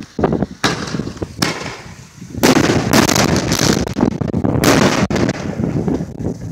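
Consumer fireworks going off: a run of bangs with crackling in between. The strongest blasts come about two and a half and four and a half seconds in.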